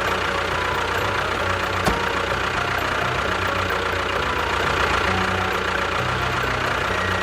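Mini tractor's engine running steadily at idle.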